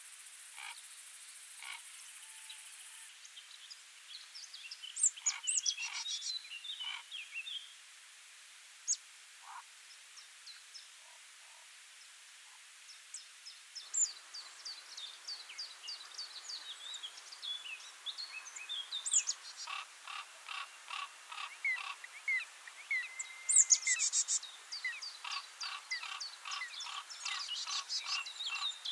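Small birds chirping and singing: scattered short high calls at first, then from about halfway through, busier song with rapid runs of repeated notes.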